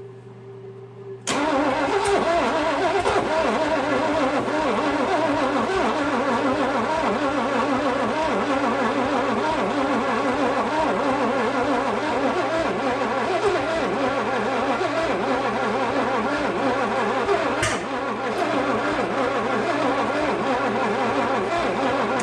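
1956 Chevrolet 265 small-block V8 turned over on its starter and trying to start, a rough, uneven engine sound that begins suddenly a second or so in and keeps going for about twenty seconds. The owner takes the trouble to be ignition timing that is still off. A battery charger hums before it begins.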